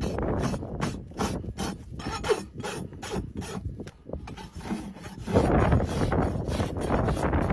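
Farrier's rasp filing a horse's hoof in quick repeated strokes, getting louder and denser about five seconds in.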